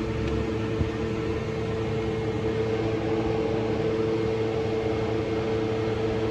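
A machine running steadily: an even hum holding a constant mid-pitched tone.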